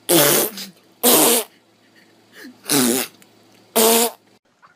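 A series of loud farts, four short blasts about a second apart.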